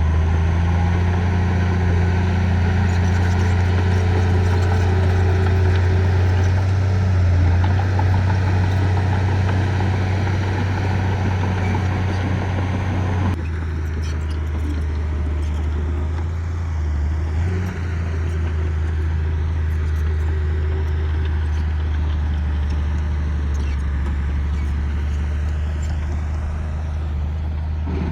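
Diesel engine of heavy earthmoving equipment running steadily with a deep drone. About halfway through the sound changes abruptly, then runs on steady.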